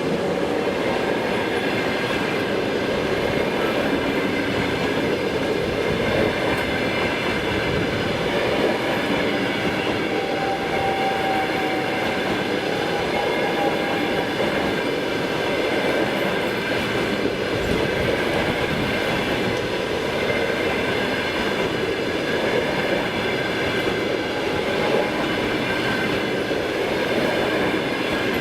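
An express passenger train hauled by a ChS7 electric locomotive passing at speed: steady noise of its wheels running on the rails, with no let-up.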